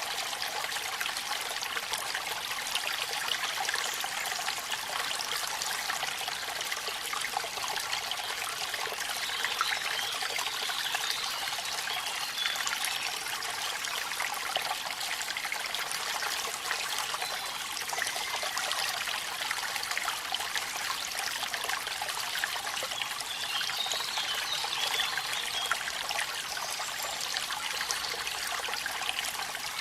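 Steady rushing and splashing of falling water with a dense patter of small drops, typical of a waterfall with rain falling. The sound is mostly high, with little low rumble, and does not change.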